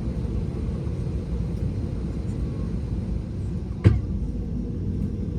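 Steady low rumble of an Airbus A321neo's cabin at the gate, the ventilation and aircraft systems running, with a single sharp thump about four seconds in.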